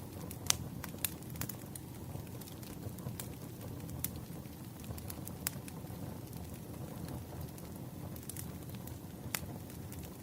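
Wood fire crackling: a steady low rumble of burning logs with scattered sharp pops and snaps, the loudest about half a second in and another near the end.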